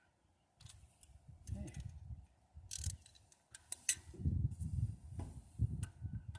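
Sharp metallic clicks and clinks of hand tools on engine parts, the sharpest just under four seconds in, over irregular low rumbling handling noise.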